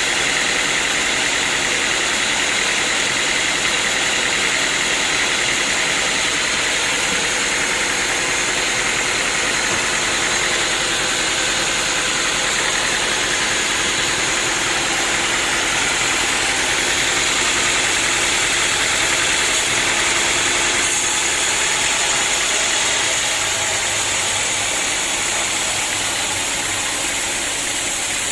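Sawmill machinery running steadily, a continuous engine-like drone with a little change in tone about three-quarters of the way through.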